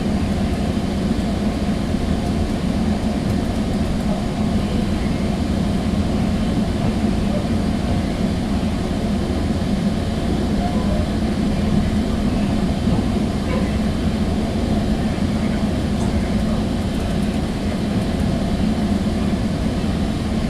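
Steady rumble and running noise inside a Sounder commuter-train passenger coach under way, heaviest in a low band and unbroken throughout.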